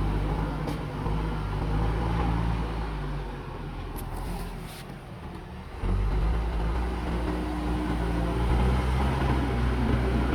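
Diesel engine of a JCB backhoe loader running. It eases off for a few seconds, then picks up sharply and runs louder from about six seconds in. A few short clicks come through in between.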